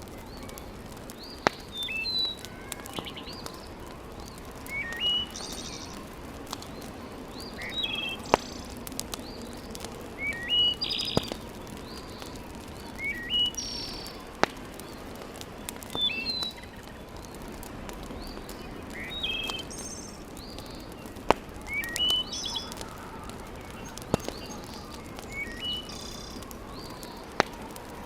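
A songbird repeats a short phrase of rising chirps and higher buzzy notes every two to three seconds over a steady low rushing background. A few sharp single pops from a wood fire crackling in a fireplace sound now and then.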